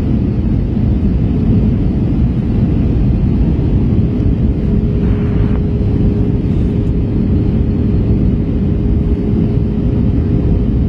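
Steady rumble of the engines and airflow inside an Airbus A321's cabin during landing, with a steady droning tone over it.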